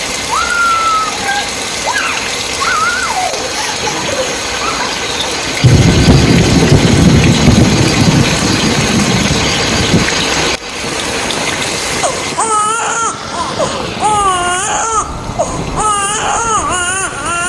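Rain falling steadily, with a louder rush of water for about five seconds in the middle. Then a young child crying in repeated wavering sobs over the last five seconds or so.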